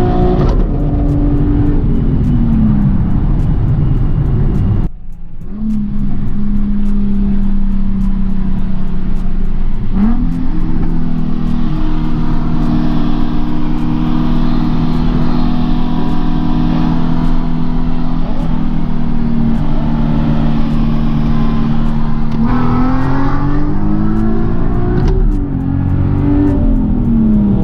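Nissan Z car's V6 engine running under way at steady revs, a long even drone. Its pitch falls about two seconds in and swings up and down several times near the end as the throttle changes.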